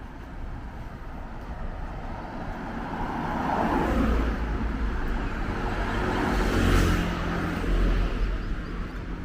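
Road traffic on a city street: vehicles passing close by, swelling from about three seconds in to the loudest pass near seven seconds, then easing off.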